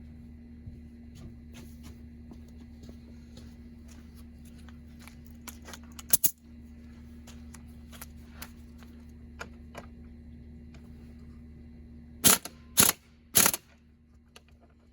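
Scattered light clicks and taps of hand-tool work on a car's seat belt mounting over a steady hum. There is a sharp knock about six seconds in and three loud knocks in quick succession near the end, after which the hum stops.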